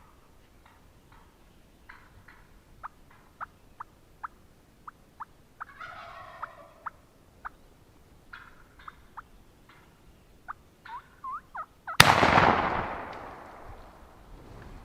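Wild turkey clucks and a gobble, a string of short sharp calls with a rattling gobble about six seconds in, then a single loud shotgun blast near the end that echoes away as the bird is shot.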